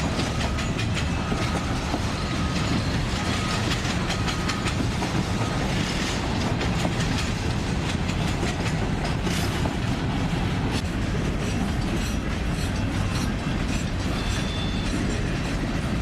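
Railroad cars rolling past at steady speed: a constant rumble with wheels clicking over rail joints. A faint short squeal repeats several times in the first few seconds.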